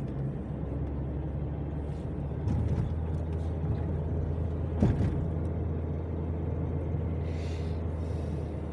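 Steady low drone of a car driving on the road, heard from inside the cabin, with a single sharp knock about five seconds in.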